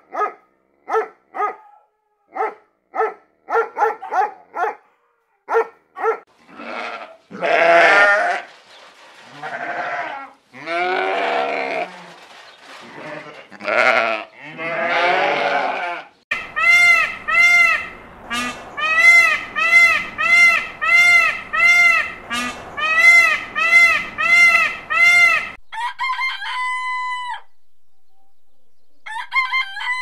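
A sequence of animal calls: a dog barking in short quick barks, then bleating in longer wavering calls from about seven seconds in, then a fast run of short repeated calls about two a second, and near the end a rooster crowing.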